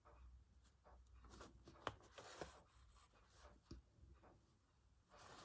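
Faint rustling and scratching of a needle and thread drawn through fabric in hand embroidery, with small ticks from handling and one sharper tick about two seconds in.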